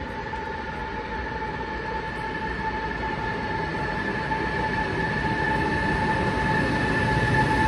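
High-speed electric train pulling in alongside the platform, its rumble growing steadily louder as it approaches, with a steady high-pitched whine held at one pitch throughout.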